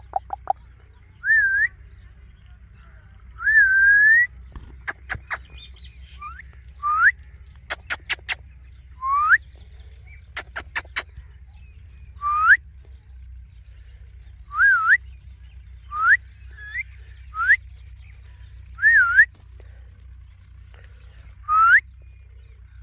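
Parrot giving short whistles, about a dozen spread out, each a quick rising or dip-and-rise note. Three quick runs of sharp clicks fall between them.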